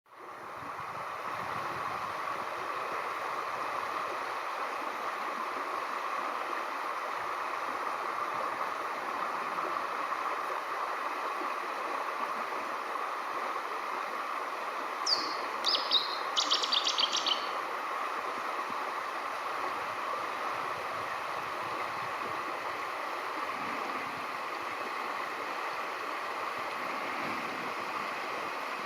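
Small river cascade rushing steadily, the water spilling over the remains of a removed dam. About halfway through, a bird gives a short call: a falling whistle and then a quick run of high notes.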